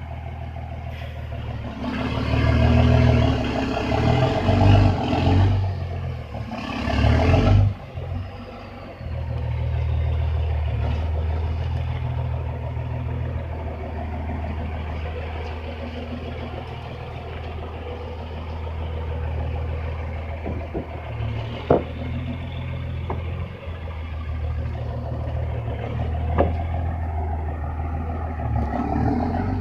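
Heavy truck engine pulling in first gear: it revs hard and unevenly for several seconds, then runs steadily under load, with a couple of sharp knocks later on.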